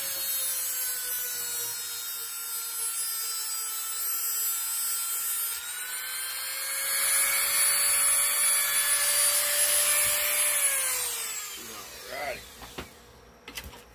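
Power tool's cutting wheel cutting off protruding nails: a steady high whine over a grinding hiss. About ten and a half seconds in the motor is switched off and winds down, falling in pitch, and a few light clicks follow.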